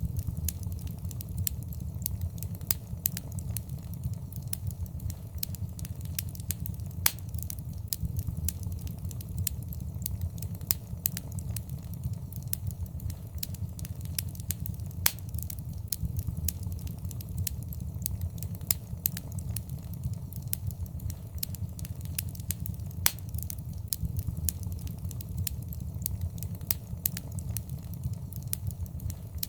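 Wood fire crackling in a fireplace: a steady low rumble of flames under constant small crackles, with a louder pop every eight seconds or so.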